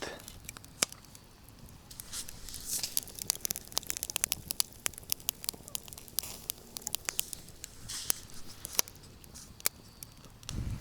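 Pine-wood campfire crackling, with many sharp, irregular pops and snaps over a soft hiss.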